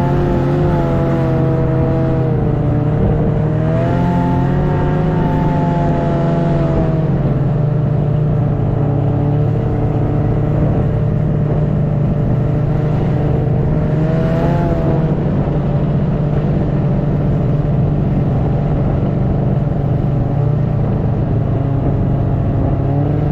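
Snowmobile engine running steadily under way, its pitch rising and falling with the throttle, once about four seconds in and again about fourteen seconds in.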